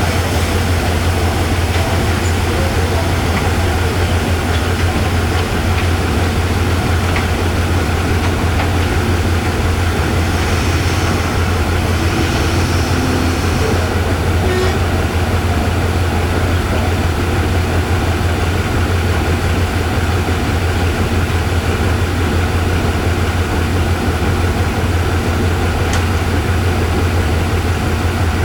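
State Railway of Thailand diesel-electric locomotive idling at a standstill, a steady low engine hum.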